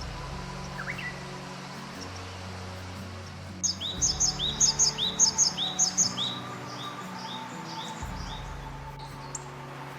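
A bird sings a run of about a dozen quick, repeated downward-slurred high notes, loudest at first and fading out over about four seconds. Slow sustained music chords play underneath, and there are a couple of faint single chirps before and after.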